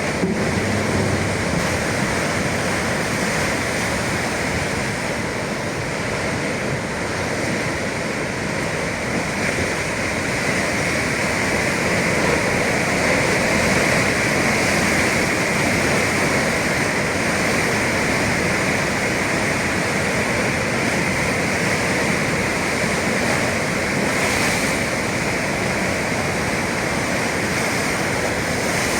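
Atlantic sea waves and surf washing steadily, a continuous rush of water with no distinct breaks.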